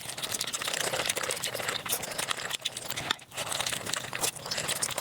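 Eating sounds sped up to five times normal speed: a dense, rapid run of crunching and chewing clicks, with a brief drop about three seconds in.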